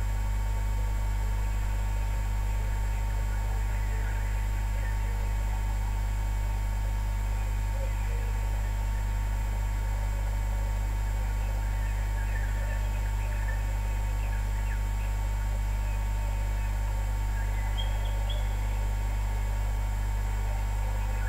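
A steady low hum, the loudest thing throughout, with faint, scattered chirps of a morning bird chorus above it, coming in short clusters.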